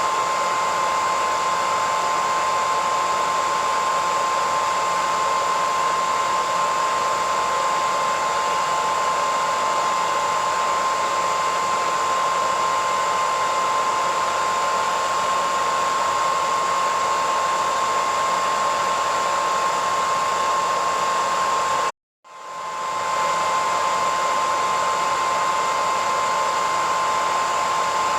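Hairdryer running steadily: a rushing blow of air with a steady whine. About three quarters of the way through, it cuts out for about half a second and then quickly comes back to full level.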